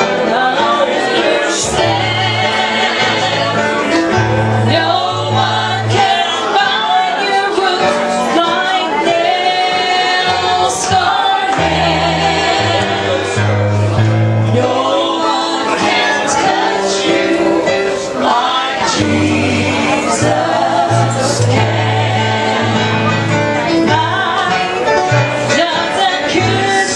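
Gospel music: voices singing over an instrumental accompaniment with a bass line and percussion strokes.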